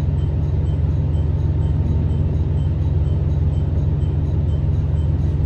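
Steady low rumble heard inside the cabin of a Tosa Kuroshio Railway 9640 series diesel railcar on the move: engine drone and running noise, with a faint high ticking about three times a second.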